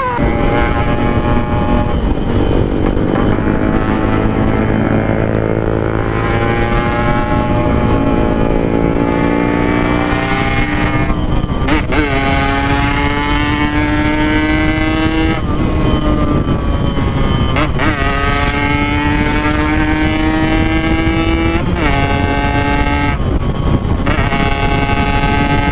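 Yamaha RX-King 135 two-stroke single-cylinder engine with an aftermarket PackingPower exhaust, ridden hard through the gears. The exhaust note climbs steadily in each gear and drops sharply at each of several upshifts.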